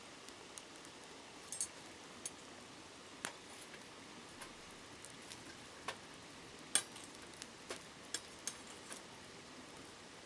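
Wood campfire crackling, with irregular sharp pops and snaps, the loudest about two-thirds through, over the steady hush of a flowing river.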